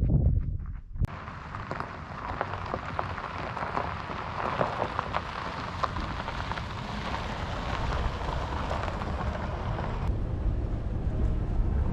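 Rain falling, a dense patter of drops that starts abruptly about a second in after a few low thuds, and thins out near the end.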